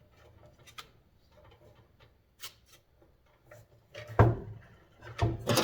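Small metal motor parts being handled, with light scattered clicks and taps. A sharp knock comes about four seconds in, and a louder metallic clatter starts near the end.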